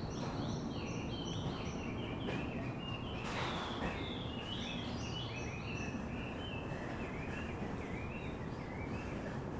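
Small birds chirping in quick runs of short, repeated notes over a steady low background noise, with a brief rushing hiss about three and a half seconds in.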